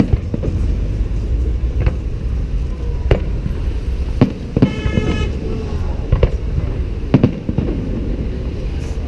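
Fireworks display: sharp bangs of shells bursting, about five of them spaced a second or so apart, over a steady low rumble. A brief high whistle comes about halfway through.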